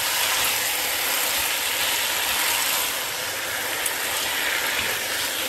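Chicken pieces in curry paste and hot oil frying in a pot, a steady sizzle, while a spoon stirs them.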